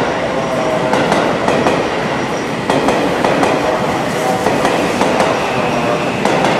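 Seibu 001 series 'Laview' limited express electric train pulling slowly into the station. Its wheels clack repeatedly over rail joints and points, with brief thin squeals as it slows.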